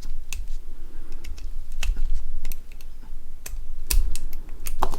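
Irregular light clicks and taps of small Nokia 6680 phone parts being handled and pried apart during disassembly, with a few dull low knocks; the sharpest click comes about four seconds in.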